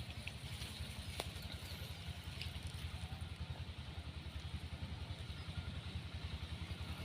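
A small engine running steadily with an even low pulsing, and a single sharp click about a second in.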